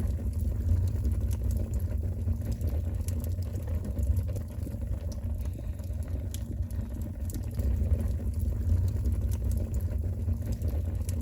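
Wood fire burning in the firebox of a Black Stove 13 fireplace stove on its first firing: a steady low rumble with scattered faint crackles.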